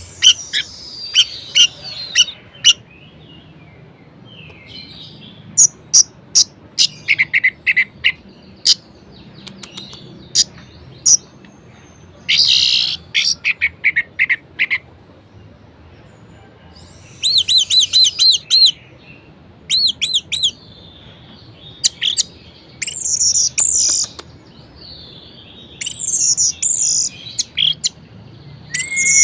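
Orange-headed thrush singing a varied song in bursts: sharp high chirps, quick runs of repeated notes and changing phrases, broken by short pauses.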